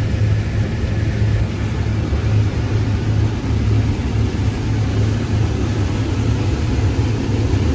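Case IH 8120 combine running steadily while harvesting corn: a constant low engine drone with no changes in pitch or level.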